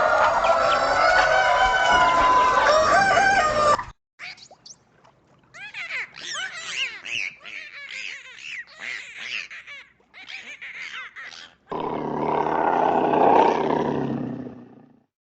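Farm poultry calls in a run of separate clips. First come loud chicken clucking and crowing calls. After a cut about four seconds in there are quieter, short high chirps that fall in pitch, and near the end a louder, dense chorus of lower calls lasting about three seconds.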